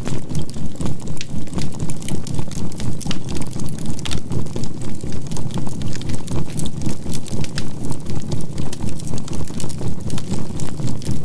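Campfire crackling with sharp, irregular pops. Under it run a steady 528 Hz healing tone and a low binaural-beat hum whose loudness pulses evenly about three to four times a second.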